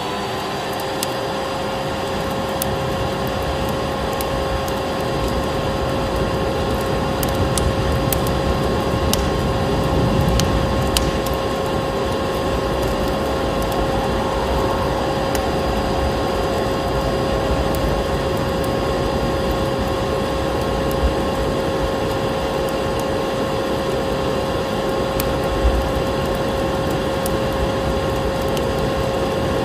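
Vacuum cleaner motor running steadily with a high whine, its pitch climbing and levelling off in the first second as it reaches full speed. Scattered sharp crackles of a wood fire sound over it.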